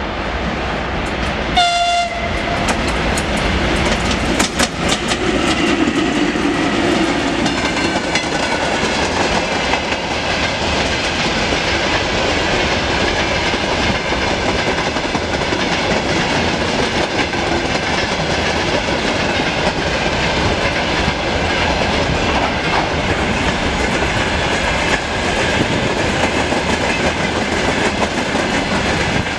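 VL10U electric locomotive sounds a short horn blast about two seconds in, then passes at the head of a freight train. The hopper wagons roll by with a steady noise and the clickety-clack of wheels over rail joints.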